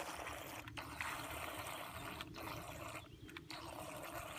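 Radio-controlled bait boat's propellers churning the water, a steady splashing hiss that starts abruptly and cuts out briefly three times as the throttle goes on and off.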